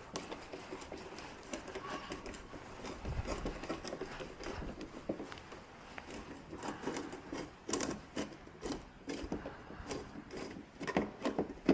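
Scattered light clicks and knocks of hands handling small hard objects, coming more often and louder in the second half.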